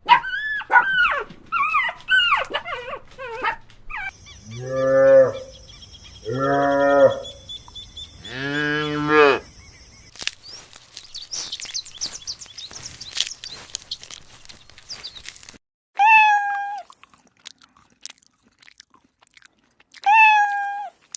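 A string of different animal calls. At the start come quick high-pitched calls; from about four seconds in there are three long, low moos from cattle; near the end come two short, higher calls.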